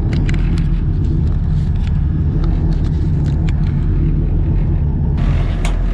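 Suzuki Hayabusa GSX1300R inline-four motorcycle engine in a KP61 Starlet idling steadily, heard from inside the car, with scattered sharp clicks over it.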